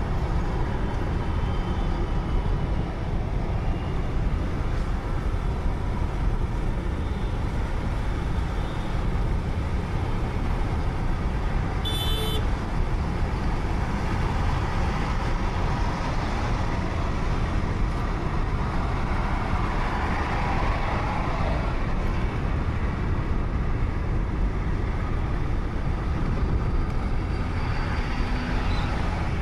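Steady road noise of a car driving on a highway, with a brief high beep about twelve seconds in.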